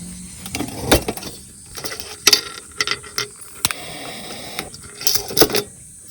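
A run of irregular sharp clicks and knocks, about a dozen over several seconds, with the loudest strikes about one, two and five seconds in.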